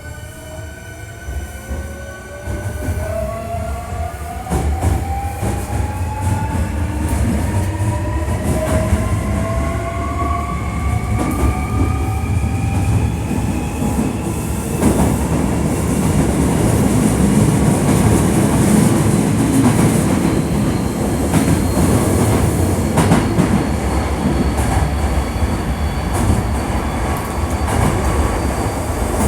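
Hankyu 1300 series electric train, a unit known for an unusual noise, pulling away: its VVVF inverter and traction-motor whine climbs in pitch as it gathers speed over the first dozen seconds or so. It then runs on with a heavy rumble of wheels on rail and occasional sharp clicks.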